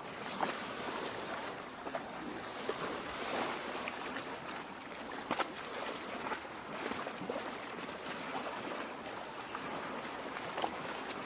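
Lake water lapping at the shore: a steady wash with many small, irregular splashes and gurgles.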